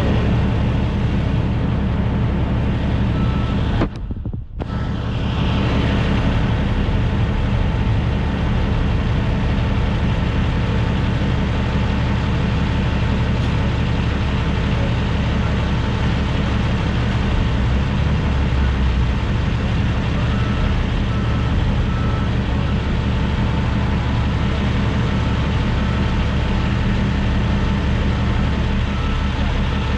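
Big-rig diesel engine running steadily, a low drone with a brief dip about four seconds in. A faint repeating beep sounds in the background through the second half.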